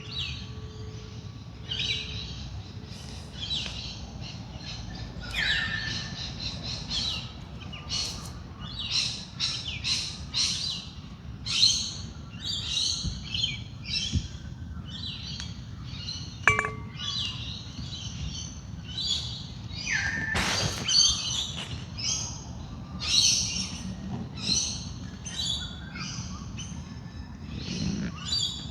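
Dawn chorus: many wild birds chirping and calling in quick, overlapping phrases throughout, over a low steady rumble. A singing bowl's soft ring fades out in the first couple of seconds.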